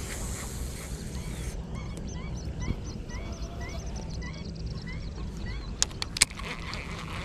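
A bird calling in a quick series of short, upward-hooked notes, about two or three a second, that fades out after a few seconds, over a steady low rumble. Two sharp clicks near the end.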